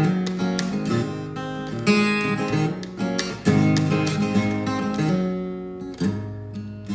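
Acoustic guitar strumming chords in an instrumental passage, the strums fading near the end.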